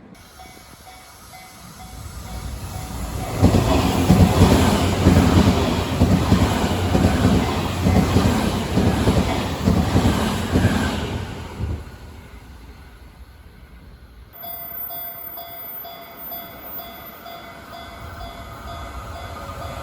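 A train passing close by: its rumble builds over a couple of seconds, stays loud for about eight seconds, then fades away.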